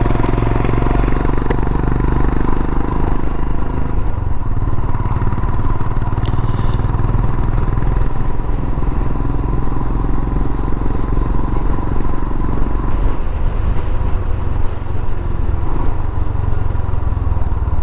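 Royal Enfield Himalayan's single-cylinder engine running steadily under way, its exhaust note coming through an aftermarket Enfield precision silencer.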